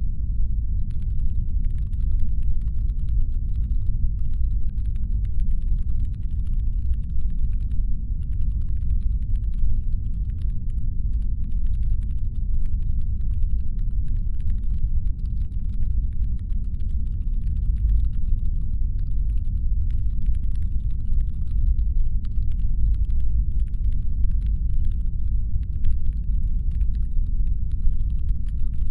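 Steady deep brown-noise rumble, designed as a spaceship's engine hum, with faint irregular clicking and crackling layered over it.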